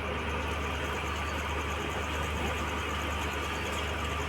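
Steady low hum and rumble of an LHB passenger train on a diesel-hauled journey, with no distinct knocks or changes.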